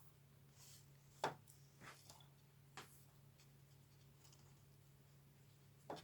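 Near silence with a low steady hum, broken by four short light taps or clicks of things being handled, the sharpest about a second in and another just before the end.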